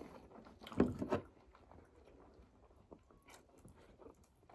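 A person biting and chewing food, close to the microphone. There is a louder burst of bites about a second in, then only faint small mouth clicks.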